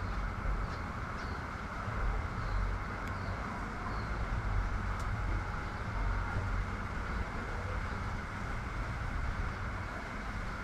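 Heavy rain and wind: a steady rushing noise with a low, wavering rumble underneath.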